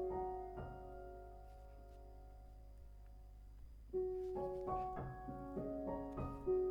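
Background music of soft solo piano. The notes ring out and fade into a near-pause, then the playing resumes about four seconds in.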